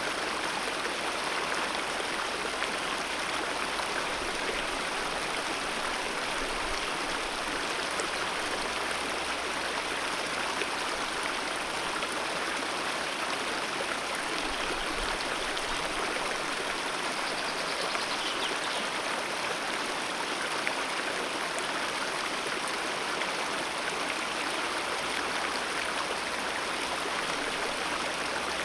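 Mountain river rushing steadily over rocks, a constant, even roar of flowing water.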